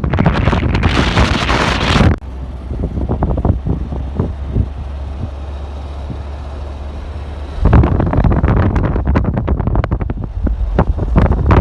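Wind buffeting the microphone in loud, uneven gusts. A bright rushing hiss comes about a second in, then a calmer stretch with a steady low hum, and the buffeting returns strongly near the end.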